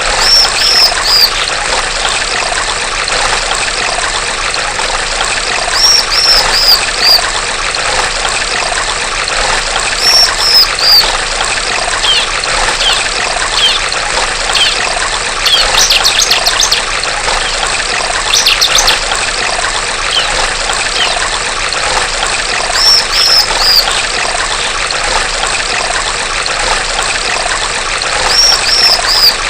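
Steady trickling stream water, with a female bar-winged prinia calling over it: a short run of four or five high notes about five times, and two quick rattling trills near the middle.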